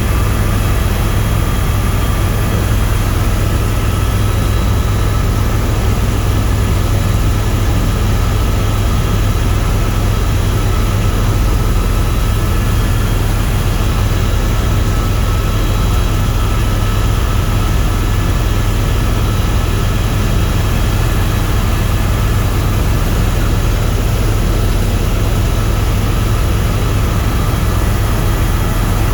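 Steady drone of a tour helicopter's engine and rotors heard from inside the cabin, a deep low hum that holds even without change.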